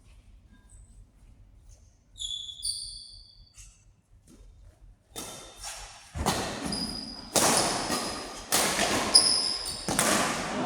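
Sport shoes squeaking on an indoor court floor, then a run of loud sharp hits and thuds about once a second from a doubles rally, echoing in the hall, with more shoe squeaks between them.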